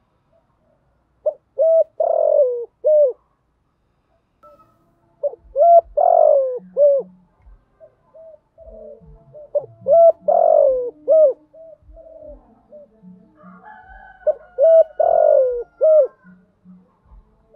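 Spotted dove cooing its song: four repeated phrases of short coos, each with a louder, longer note that falls in pitch in the middle, about four seconds apart.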